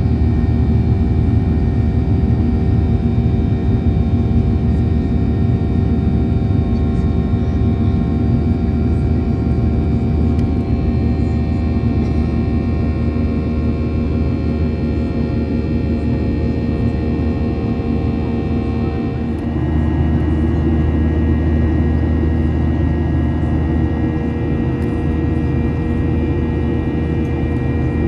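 Boeing 737-800 cabin noise in flight: the steady drone of its CFM56 turbofan engines and airflow, with a set of steady whining fan tones over a deep rumble. About two-thirds of the way through the sound changes abruptly, the tones shifting and the rumble growing deeper and stronger.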